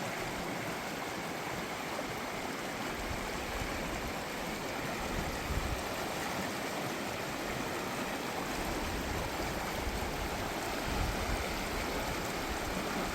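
Fast subalpine creek rushing over rocks, a steady wash of water noise, with a few short low rumbles along the way.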